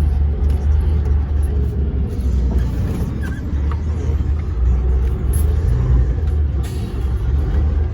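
Steady low rumble of a DAF dump truck's diesel engine and road noise heard inside the cab while driving.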